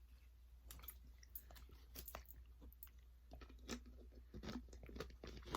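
Faint chewing and crunching of food, with short irregular mouth clicks that come thicker in the second half.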